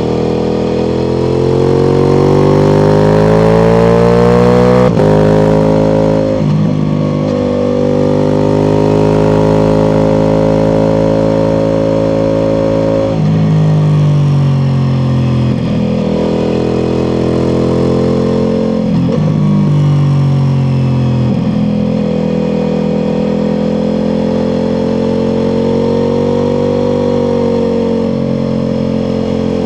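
Ducati Multistrada V4 Pikes Peak's V4 engine through an Akrapovic exhaust, pulling up in pitch until a gear change about five seconds in. It then runs on at moderate revs with several more gear changes and stretches of easing off.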